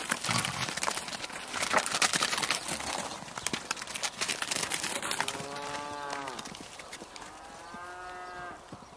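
Footsteps crunching in snow, then two long moos from cattle, each lasting about a second.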